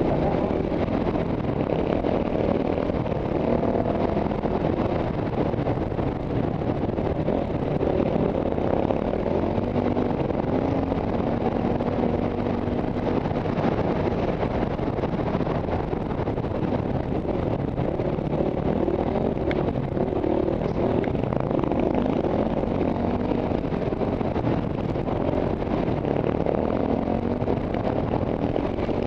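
Single-cylinder KTM trail bike engine running at riding speed on a sandy dirt track, its revs rising and falling with the throttle, heard from the rider's helmet camera.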